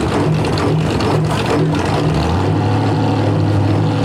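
Pulling semi's overfueled Detroit diesel engine running with a rhythmic pulsing note, about three pulses a second. About two seconds in, the pulsing gives way to a steady, lower note.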